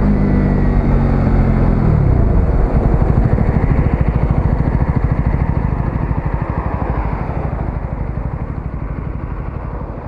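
125cc single-cylinder motorcycle engine dropping in revs over about two seconds, then running at low revs with an even throbbing beat that gradually fades.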